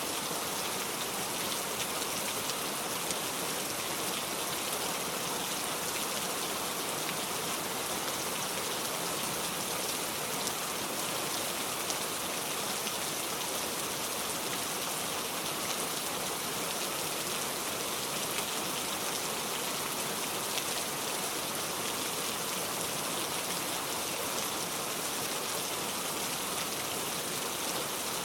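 Steady rain falling, a constant hiss with many fine drop ticks.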